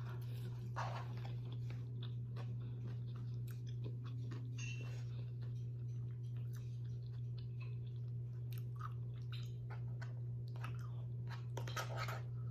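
Close-miked chewing: wet mouth clicks and crunches of a person eating, scattered throughout, over a steady low hum.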